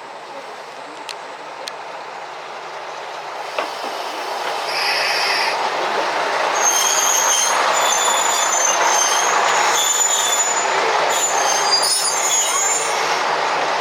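Diesel railcar running along the track, growing louder about four seconds in. High-pitched wheel squeal comes and goes through most of the rest.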